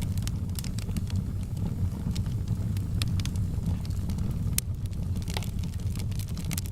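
Wood fire crackling in a fireplace: a steady low rumble of flame with frequent sharp pops and snaps scattered irregularly throughout.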